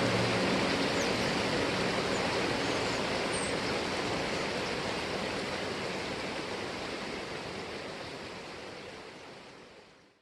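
Steady rush of flowing water, like a stream or small waterfall, slowly fading out to silence, with a few faint high chirps in the first few seconds.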